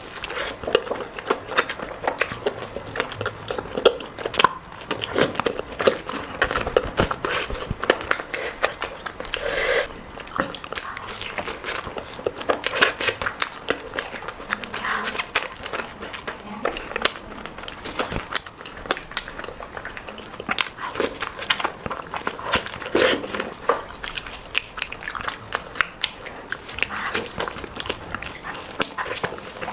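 A person eating close to the microphone: continuous irregular chewing, biting and mouth smacks.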